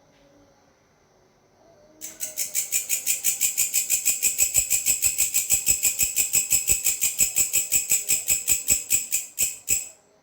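Grasshopper (belalang) stridulating: a high, dry, fast even pulsing of about six pulses a second. It starts about two seconds in and cuts off abruptly just before the end.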